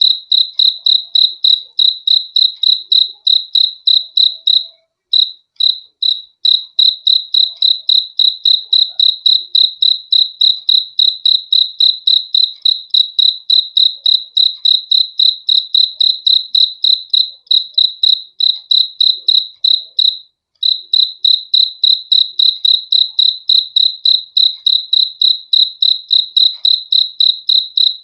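A single cricket chirping close by, a loud, even train of high-pitched chirps several times a second, with two short pauses, about five and twenty seconds in.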